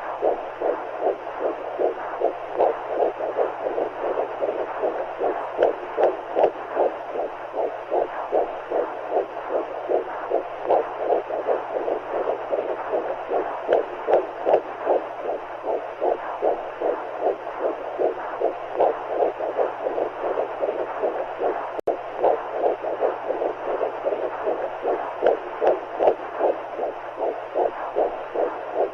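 Womb sound for soothing a baby: a steady, rhythmic heartbeat pulsing over a constant whooshing noise, meant to mimic the mother's and baby's hearts and the amniotic fluid as heard inside the womb. It breaks off for a split second about 22 seconds in.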